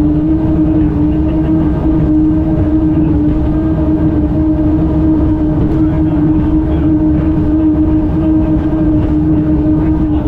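Helicopter-type turbine engines of a jet-powered race boat running: a loud, steady drone holding one constant pitch over a low rumble.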